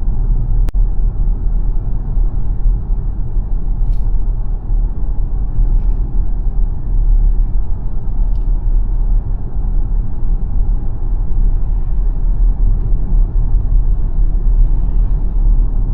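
Steady low rumble of tyre and road noise from the Xpeng G9 electric SUV driving along, with no engine note. A single sharp click comes under a second in.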